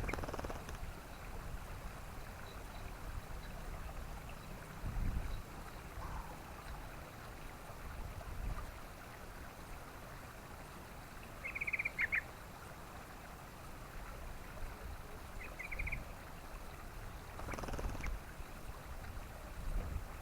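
Yellow-vented bulbul giving two short, rapid chattering phrases, about eleven and fifteen seconds in. Behind them is a steady background hiss with a few low rumbles.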